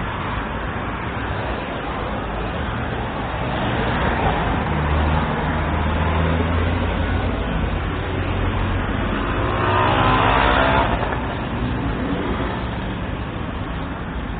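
Road traffic: a motor vehicle's engine running close by, with a louder pass about ten seconds in that falls in pitch.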